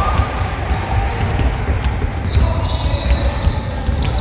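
Basketball bouncing on a gym floor during a game in progress, with repeated sharp thuds and scattered short high squeaks over the echoing court noise.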